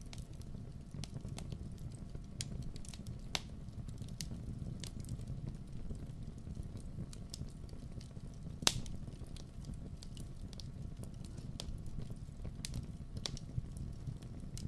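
Wood fire burning in a fireplace: a steady low rumble of flames with scattered sharp crackles and pops, one louder pop near the middle.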